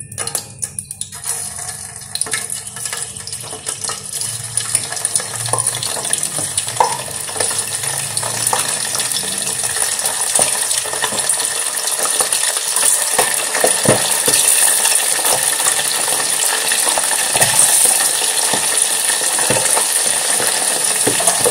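Steamed pork-stuffed squid frying in hot oil in a stainless steel pot. A dense crackling sizzle starts about a second in and grows steadily louder as more pieces go into the oil.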